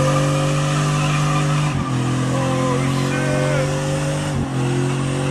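Chevrolet Silverado's stock 5.3-litre V8 held at high revs during a burnout, the rear tires spinning and squealing with a steady hiss. The engine note dips briefly twice.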